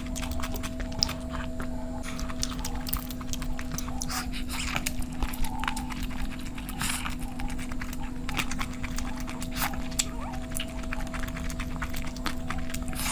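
Close-miked eating: wet chewing and lip-smacking, heard as many short irregular clicks and smacks, over a steady low electrical hum.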